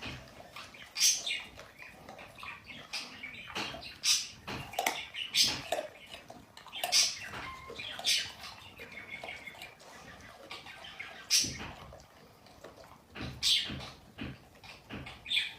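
A series of short, high-pitched chirps from a small animal, irregularly spaced, about one every one to two seconds.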